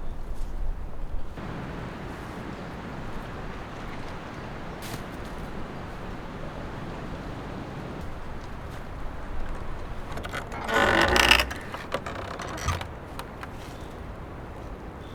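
Strong wind rushing steadily. About eleven seconds in comes a louder grating creak lasting about a second.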